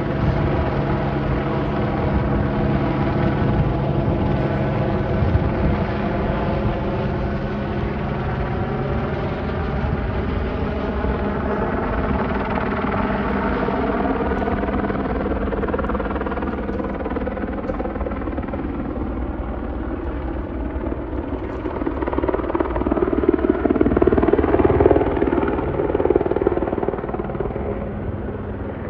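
Airbus H125 single-engine helicopter flying over: its turbine and rotor run as a steady drone whose pitch shifts slowly as it passes, growing louder a little over three-quarters through, then easing off near the end.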